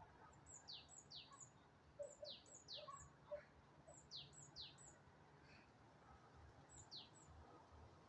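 A bird calling: phrases of three high notes, each sliding steeply down in pitch, repeated about every two seconds. The last phrase, near the end, has only two notes.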